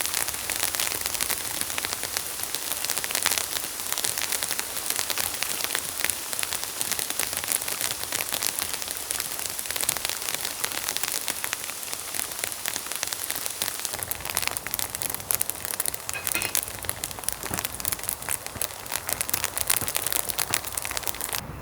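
Rain pattering steadily: a dense, even spatter of fine ticks.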